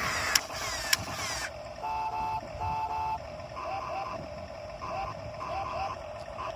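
Electronic shooting sound effects from a toy truck: about a second and a half of crackling noise with clicks, then short electronic tones and a run of beeps and little chirps over a steady high hum.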